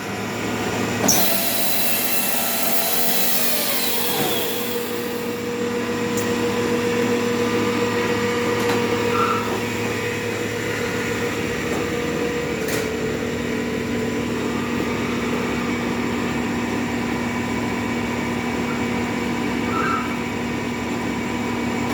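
A motor-driven machine running steadily with a droning hum; one pitch in it drops away about halfway through while the lower hum carries on, with a sharp knock about a second in.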